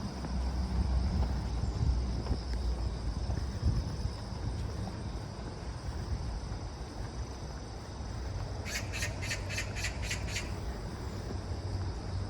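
A bird calls a quick run of about seven harsh notes, around four a second, starting near nine seconds in. Underneath is a steady low outdoor rumble and, in the first seconds, a thin high steady hum.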